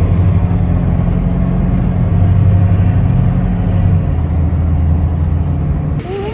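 Motor vehicle driving: a steady, loud low engine and road rumble with no break, until the sound changes abruptly near the end.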